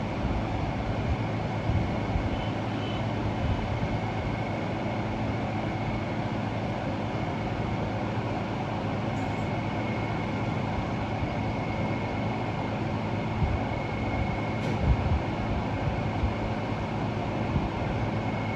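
Steady mechanical running noise: a constant low rumble with a thin, steady high whine over it, and a few faint knocks.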